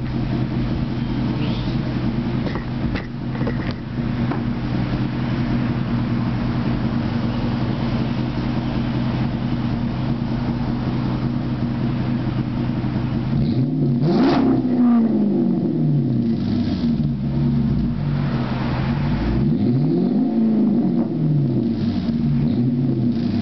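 2006 Dodge Charger R/T's HEMI V8 through a Cherry Bomb exhaust with no resonators and the mufflers' glass packing blown out, idling steadily, then revved up and back down twice in the second half, with a shorter blip near the end.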